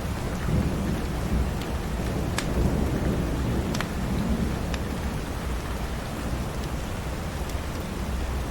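Steady rain with a low rumble beneath it, and a few sharp single pops from a wood fire crackling now and then.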